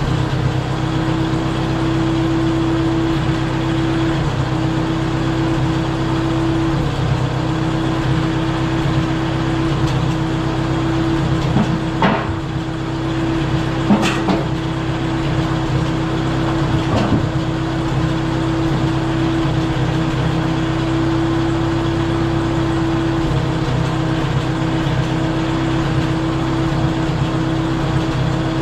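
Case 310 crawler dozer's engine running steadily, with three sharp knocks a little before and after the middle.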